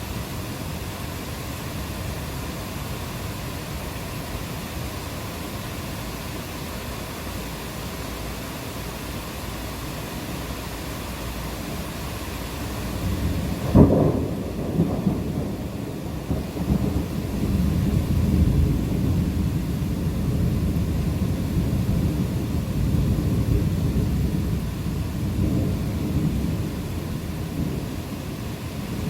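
Steady rain falling, then about halfway through a sharp crack of thunder followed by a long low rumble of thunder that goes on under the rain.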